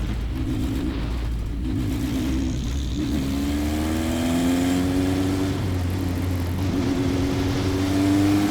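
Single-seater race car engine heard onboard, running at low speed on the roll-out. Its note wavers at first, then rises steadily from about three seconds in, drops briefly and climbs again near the end.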